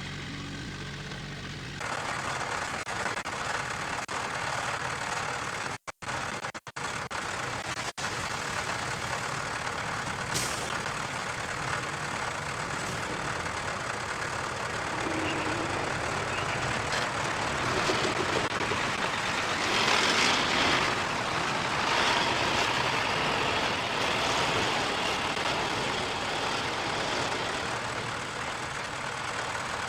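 Heavy earth-moving machinery working: a diesel engine running under broad mechanical noise that grows louder past the middle. The sound cuts out abruptly a few times around six to eight seconds in.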